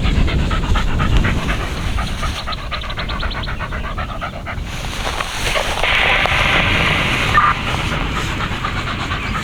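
Dog panting rapidly and steadily.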